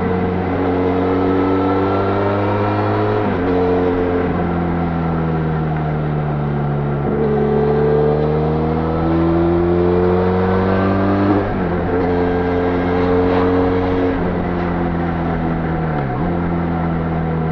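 Benelli Leoncino 500's parallel-twin engine through its stock exhaust, ridden on the road. Its pitch climbs and falls with the throttle, with abrupt drops in pitch several times.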